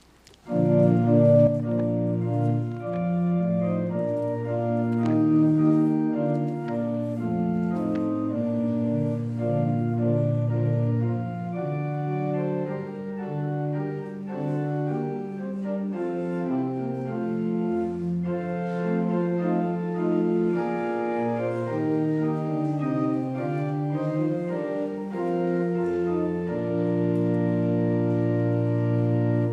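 Organ playing the introduction to a congregational hymn, held chords moving through the melody, which is set to a familiar Christmas carol tune. It starts about half a second in and breaks off at the end, just before the singing begins.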